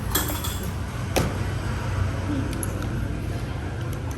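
Steady low background rumble with a single sharp click or clink about a second in.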